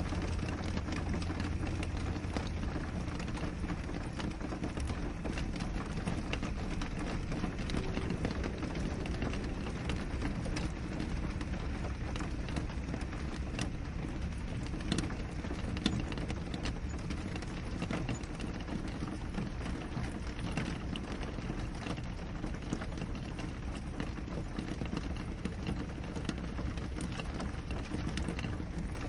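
Steady rain on a window: many separate drops ticking over an even hiss, with a low rumble underneath. A couple of drops land slightly louder about halfway through.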